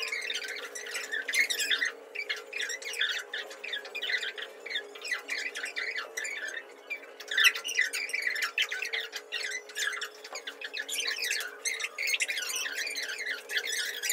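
Birds chirping and squawking in a rapid, continuous chatter, over a steady low tone.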